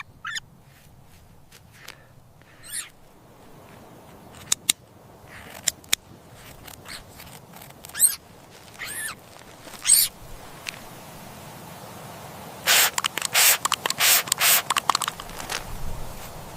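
Short, high-pitched wavering animal cries, a few seconds apart, followed about two-thirds of the way in by a quick run of harsher, noisier sounds.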